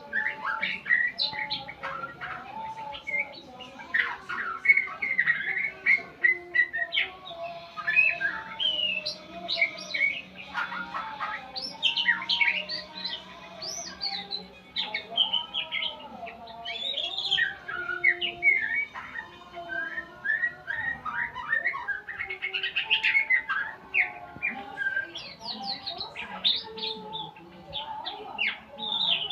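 A murai songbird singing a long, continuous, varied song of quick whistled notes, chirps and glides, as played in a tutor recording ('masteran') for teaching caged birds to sing.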